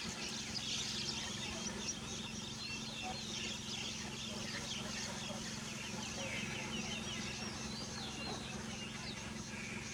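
Many short, high-pitched animal chirps and squeaks overlapping throughout, some sliding in pitch, over a steady low hum.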